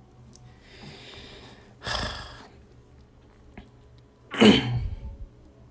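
A man's short breathy exhales near the microphone: a softer one about two seconds in and a louder, sharper one about four and a half seconds in.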